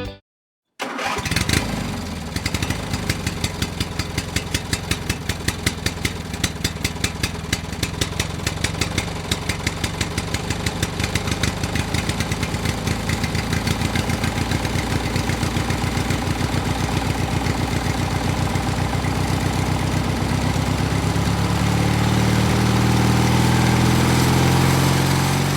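Small engine of a homemade mini tractor running with a regular chugging beat that gradually quickens, then grows louder and higher in pitch in the last few seconds as it speeds up.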